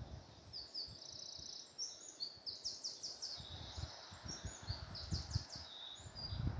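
A songbird singing a run of high, quick phrases with trills and rapidly repeated notes, over faint low rumbles of wind.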